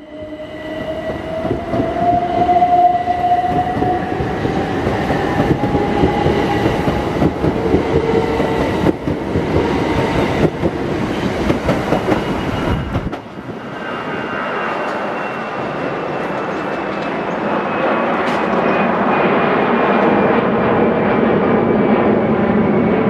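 A train running at a station platform: wheels clicking over the rail joints under a steady whine that rises slightly in the first few seconds. About 13 seconds in the sound changes abruptly and the low rumble drops away, leaving a lighter running noise with the whine.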